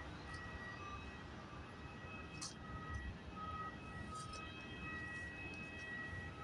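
Distant twin turbofan engines of an Airbus A321 climbing away after take-off: a low rumble under a thin, steady high whine that fades in and out.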